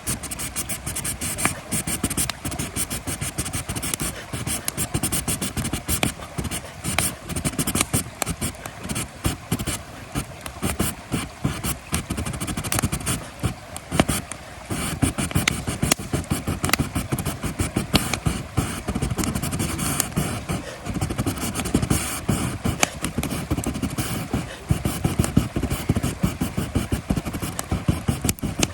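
Wood campfire crackling, with dense, irregular pops and snaps.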